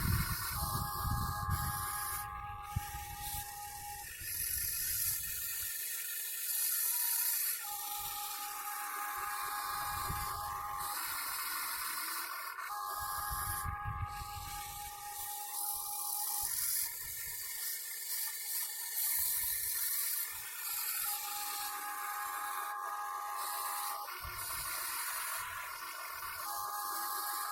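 Electric motors of a Huina 1580 RC excavator whining in spells of a few seconds as its functions are worked, starting and stopping repeatedly over a steady hiss.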